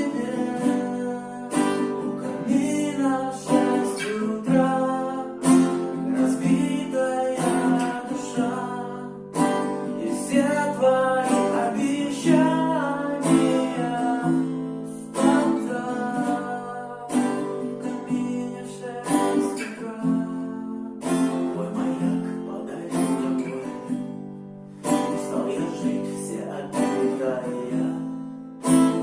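Acoustic guitar strummed in a steady rhythm, playing the chords of the song, with a voice singing along.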